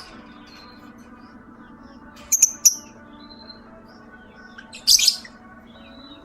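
Lovebird giving short, shrill, loud calls: a quick pair about two seconds in and another burst about five seconds in, with fainter chirps between.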